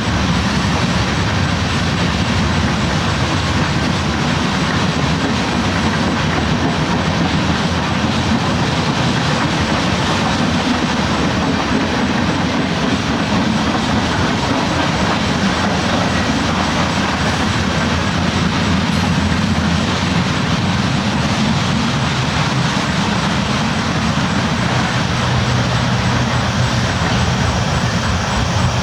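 Train rolling along the tracks: a steady rumble of wheels on rail.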